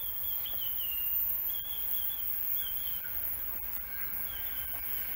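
Birds chirping: short, high, slightly wavering calls every second or two over a steady outdoor hiss, with two faint clicks.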